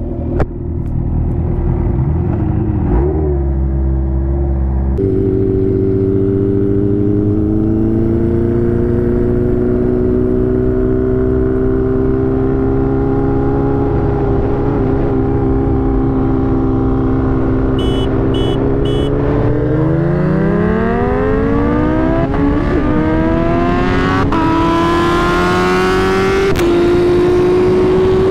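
Superbike engine running steadily at a constant cruise, then three short horn beeps. Right after them the engine revs up hard under full acceleration for a roll race from second gear, its pitch climbing and dipping at each upshift.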